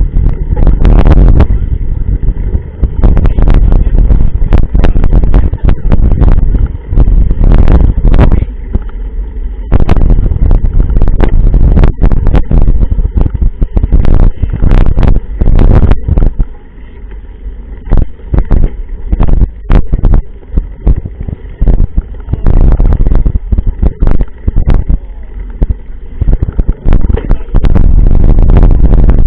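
Loud rumble of wind and riding noise on a mountain biker's camera microphone, hitting the top of the loudness scale in long stretches, with many sharp knocks and rattles from bumps along the way.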